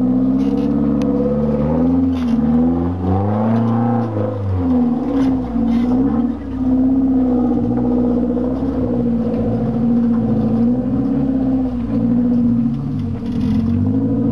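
Off-road 4x4 engine working through its gears on a rough dirt trail. The revs rise and fall again and again as the throttle is worked, with a few short knocks and rattles over the bumps.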